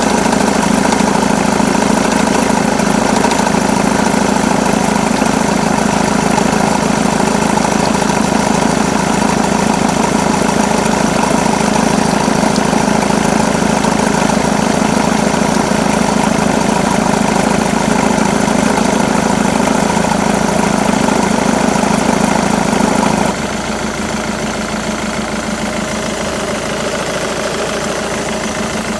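Jaguar X-Type 2.2 diesel engine idling with the noise from its auxiliary belt drive that comes when the air conditioning is on. About 23 seconds in the sound drops suddenly, becoming quieter and thinner.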